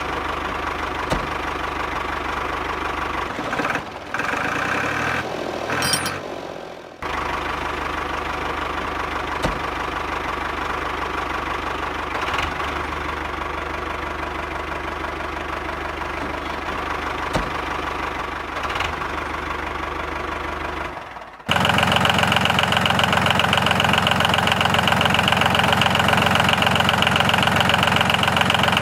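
A small motor running steadily, with a brief interruption a few seconds in; about three-quarters of the way through it switches abruptly to a louder, steadier running sound.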